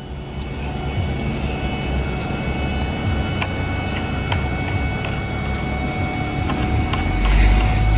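Heavy paving machinery engines running steadily, with a steady high whine above the rumble and scattered light clicks; the engine sound grows louder about seven seconds in.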